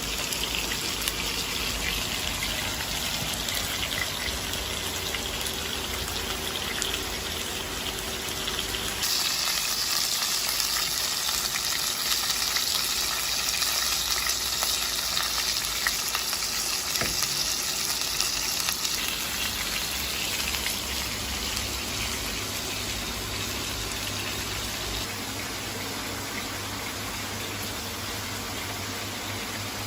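Beef steak sizzling in a frying pan, a steady frying hiss that grows louder and brighter about nine seconds in and eases back about ten seconds later.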